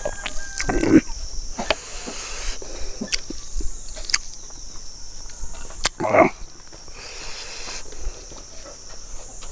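Close-miked eating sounds: chewing and lip smacking with wet clicks, and fingers working rice and chicken on the plate. Two short, louder throaty mouth sounds come about a second in and just after six seconds in.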